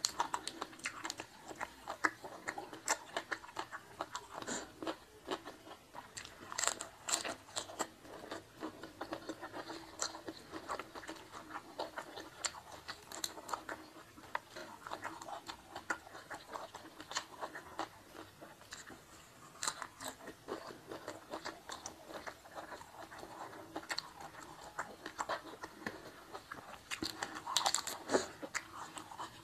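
Close-miked chewing and crunching of a meal eaten by hand, with crisp bites of raw lettuce leaves among rice and fish. The crunches come irregularly, in a louder cluster near the end.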